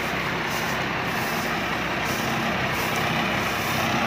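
A rice combine harvester's engine running steadily, with the even mechanical noise of the machine at work.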